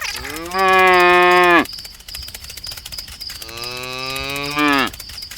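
A cow mooing twice: two long calls about two seconds apart, each rising at the start and falling away at the end, over a steady high insect-like chirring.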